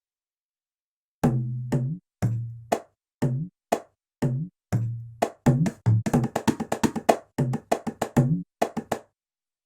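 Sampled Indian hand drum from the SwarPlug 4 virtual instrument, playing a rhythmic pattern of struck strokes, some with a low ringing bass tone. It starts about a second in and stops shortly before the end.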